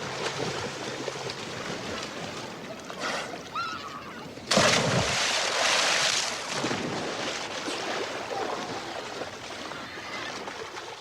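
Swimming pool water splashing, with one big sudden splash about four and a half seconds in, the loudest part, dying down over about two seconds, like a swimmer diving in.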